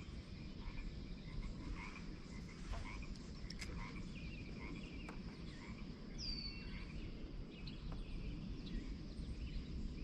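Frogs calling at a pond: many short, scattered croaks and chirps over a low steady rumble, with one high falling whistle about six seconds in.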